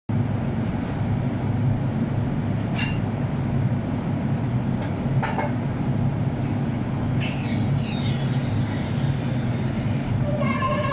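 Steady low mechanical drone with a few light metal clinks, and a brief squeak about seven seconds in.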